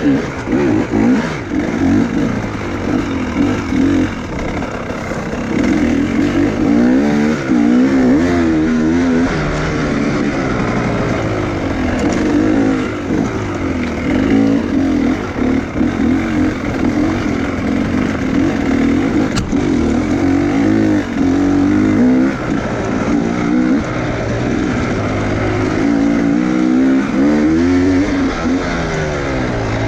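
Enduro motorcycle engine revving up and down again and again, its pitch rising and falling every few seconds as the throttle is worked.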